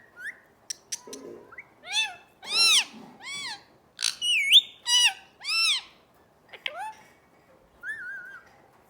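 Parrot calling: a string of short arching calls about half a second each, with quick whistled glides and a few sharp clicks between them.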